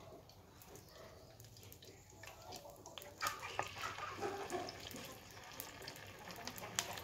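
Pieces of cassava dough laid into hot oil in a frying pan, setting off sizzling with sharp crackles about three seconds in, which goes on.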